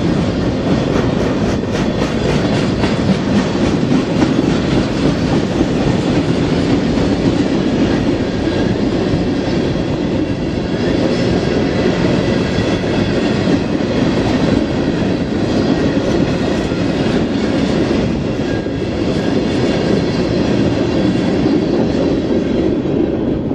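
Freight cars of a long train rolling past at close range: steady, loud noise of steel wheels on the rails with a clickety-clack over the joints.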